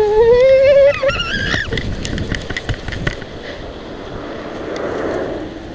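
A person's long, rising, wavering whoop for about the first second and a half, then a noisy rush with scattered clicks as the bike rolls on.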